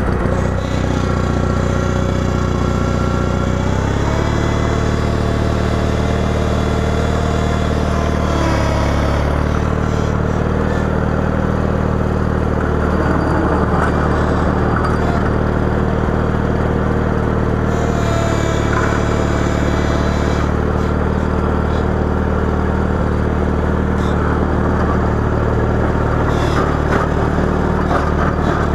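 Engine of a 318 garden tractor running steadily while plowing snow, its pitch stepping up a few seconds in and shifting again about a third of the way through.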